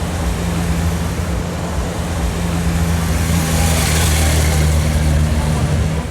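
Motorcycle engine running steadily at low revs amid street noise, growing a little louder after about three seconds.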